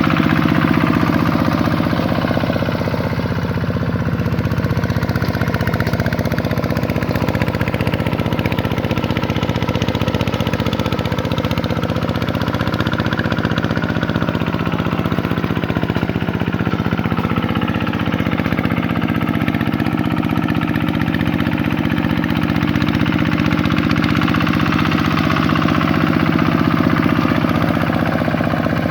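Vikyno RV 125-2 two-wheel tractor's single-cylinder diesel engine running steadily at a constant speed.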